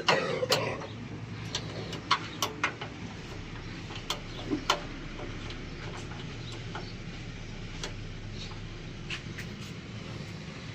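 Scattered sharp clicks and knocks over a steady low hum, most of them in the first half, typical of metal hob parts being handled during a burner repair.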